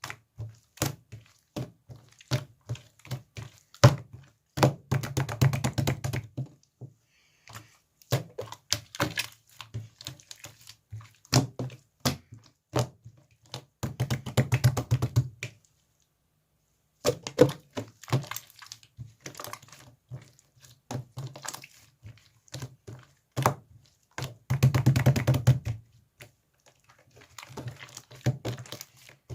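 Slime being squished and pressed by hand: sticky clicks and pops, with runs of fast crackling every several seconds.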